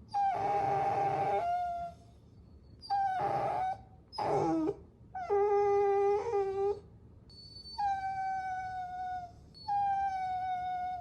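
Puppy whining: about six high-pitched whines in a row, each lasting up to a second and a half with short pauses between, most drooping slightly in pitch at the end.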